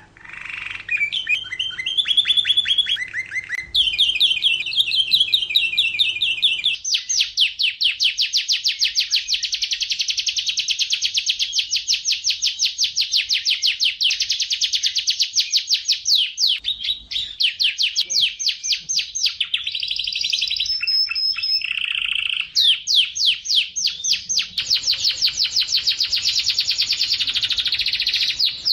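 Domestic canary singing a long, unbroken song of fast trills and rolls, switching to a new trill pattern every few seconds.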